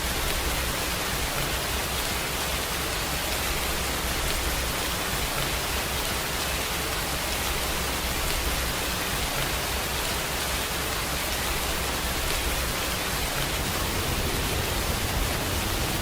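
Steady rainfall, an even hiss of rain with no separate drops or thunder standing out.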